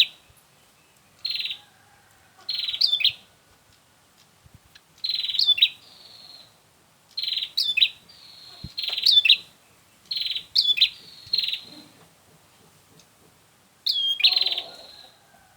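Prenjak (prinia) calling: about eight short, buzzy, rattling call bursts, each with a sharp high upward flick, repeated at irregular intervals of a second or two.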